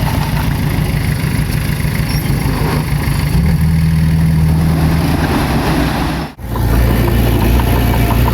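Diesel engine of heavy earthmoving machinery running steadily. About six seconds in it drops out for an instant, then comes back with a deeper engine note.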